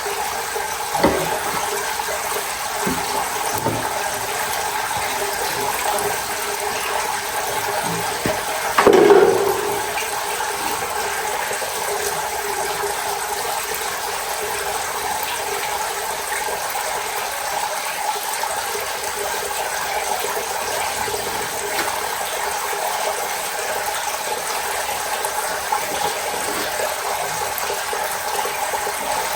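Water under pressure hissing and rushing steadily out of a loosened line on a steam pressure washer, with a few light knocks early on and a louder clunk about nine seconds in.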